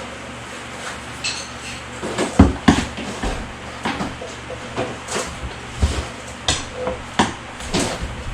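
Hammer blows, about a dozen irregular sharp metallic knocks, one or two a second, against the boat's stuck transom mount, driving it out of a transom where it is held fast at the top.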